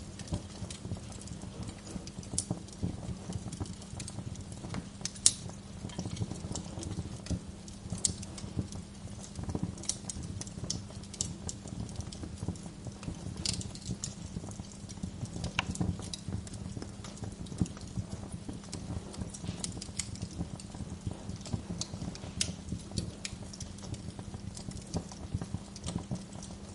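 Wood fire crackling: many irregular sharp pops and snaps, one louder pop about five seconds in, over a steady low rumble.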